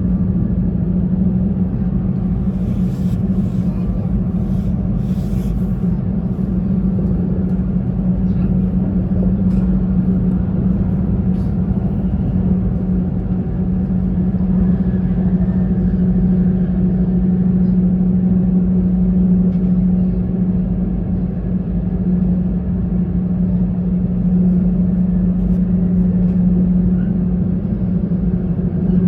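Running noise of an E2-series Shinkansen train heard from inside the car: a steady rumble with a constant low hum, and a few sharp clicks between about three and six seconds in.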